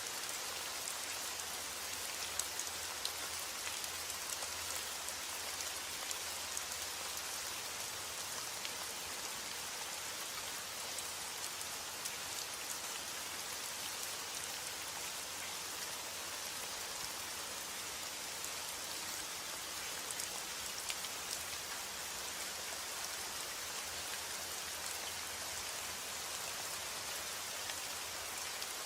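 Steady rain falling on a surface, an even hiss with the odd sharper drop hit standing out.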